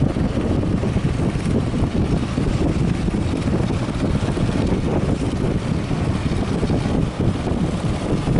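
Strong wind buffeting the microphone, a steady low rumble with no breaks.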